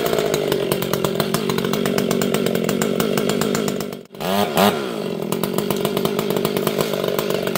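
Two-stroke chainsaw running steadily. It cuts out abruptly about four seconds in when the thumb knocks the off switch, then fires up again at once and revs back up.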